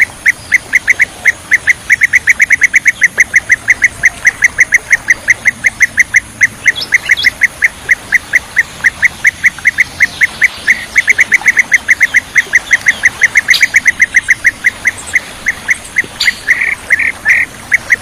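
Bee-eater calling in a long, fast run of short, sharp notes, several a second, that turns into a few louder, irregular calls near the end. The notes run over a steady hiss.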